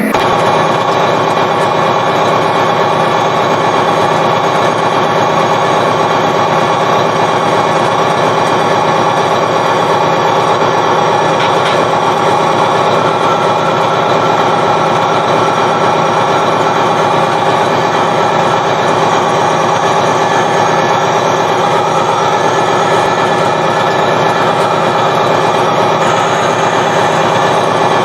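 Diesel locomotive engine running steadily, with train noise, loud and unbroken throughout.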